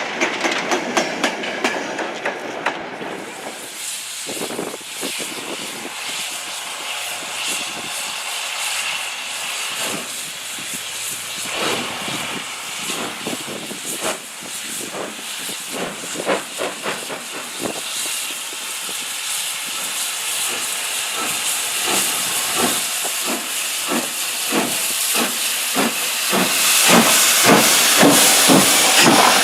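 Steam locomotive hissing steam, with a run of short beats that come quicker and louder toward the end.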